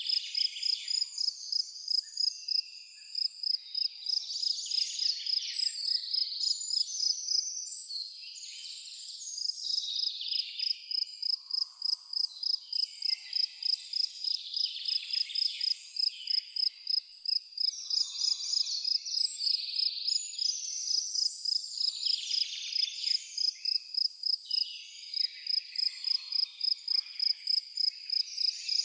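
An insect, cricket-like, chirping in an even high-pitched pulse of about three chirps a second, breaking off briefly a few times. Birds sing and call over it.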